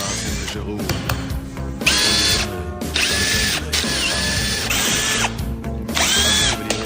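Cordless power drill/driver run in about five short bursts, each spinning up to a steady whine, as the transmission is being taken apart. Background music plays underneath.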